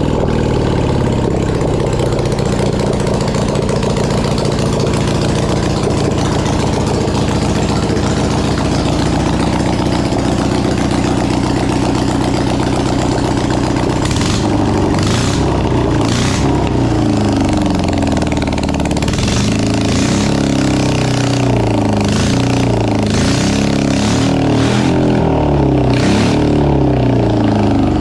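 1980s BMW air-cooled boxer twin engine running loud and raw, its pitch rising and falling as it is revved up and down repeatedly. In the second half, a run of sharp pops cuts through the engine note.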